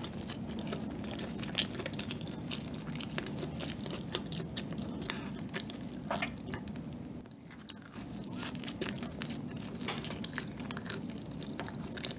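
Close-miked chewing of a soft white bread bun: dense, continuous wet mouth clicks and smacks as the bread is bitten and chewed.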